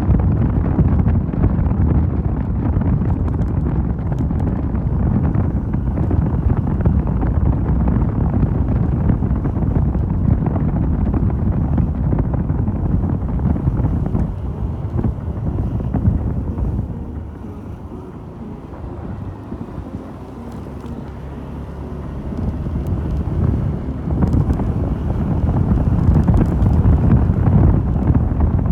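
Wind rushing over the microphone of a moving motorcycle rider. It eases off for a few seconds past the middle, as the bike slows, then builds back up.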